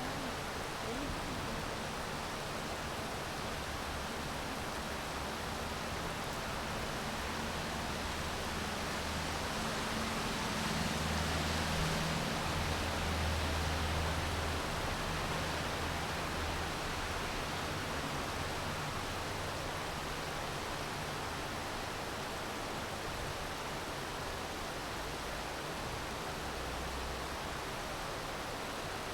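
Steady rain making an even hiss, with a low rumble that swells and fades about halfway through.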